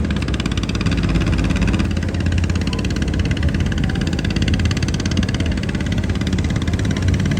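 Engine of a small watercraft running steadily, with a fast, even pulse.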